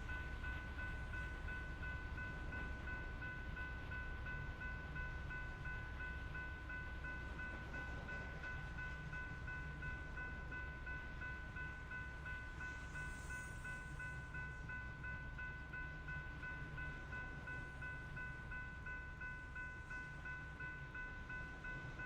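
Coal train rolling by: a steady low rumble of wheels and cars on the rails, with a constant high-pitched whine held unchanged throughout.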